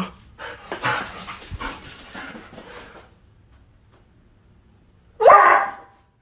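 A dog gives one loud, short bark about five seconds in, after a few seconds of softer noisy sounds.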